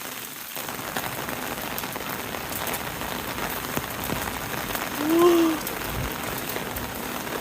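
Heavy rain pouring steadily, with a short vocal sound about five seconds in.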